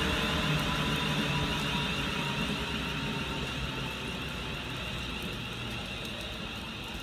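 A train moving off or passing by, its steady running sound fading gradually as it draws away.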